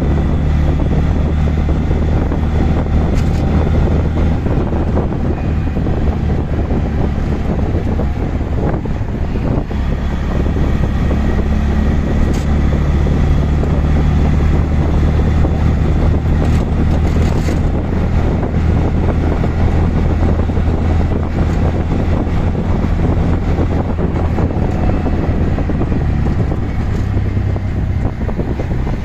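Auto-rickshaw's small CNG engine running steadily while under way, its speed rising and falling a little, with road and wind noise around it and a few light knocks from bumps.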